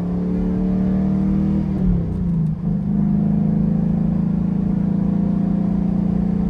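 Ford Mustang GT's 5.0-litre V8 engine and exhaust under way, pitch rising slowly as it accelerates, then dropping briefly about two seconds in, like a gear change, before running steadily at a constant pitch.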